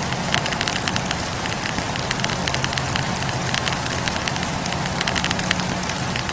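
Burning firewood crackling and popping in quick, irregular snaps over a steady low rumble.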